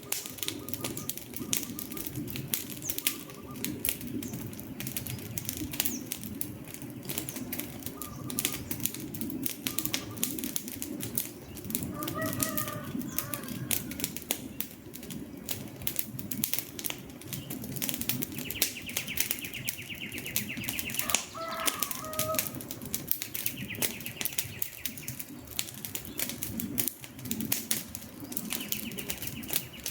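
Campfire crackling with many sharp pops over a steady low rumble of burning wood. A rooster crows twice, about twelve seconds in and again past twenty seconds.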